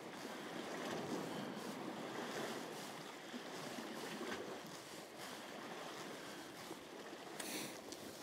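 Sea waves washing against the shore rocks, a steady rush with faint wind on the microphone and a short hiss near the end.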